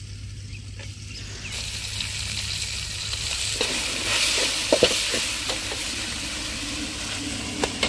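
Chicken pieces frying with browned onions in hot oil in a steel kadai: a sizzle that sets in about a second and a half in and keeps going. A metal spoon stirs the pan, knocking and scraping against the steel a few times around the middle.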